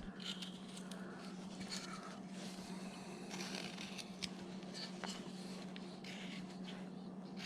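Hand carving tool paring wood in short, faint scraping and shaving strokes with the odd light tick, over a faint steady hum.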